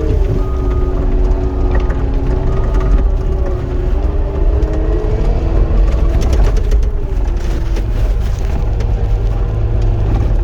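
Cat 259 compact track loader's diesel engine and hydraulics working under load from the operator's seat: a steady low rumble with a whine that rises and falls as the machine works. A burst of rattling and clatter comes about six to seven seconds in.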